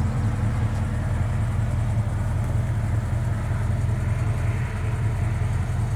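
1985 Ford Mustang GT's 302 cubic-inch (5.0 L) V8 idling steadily, with a low, even rumble.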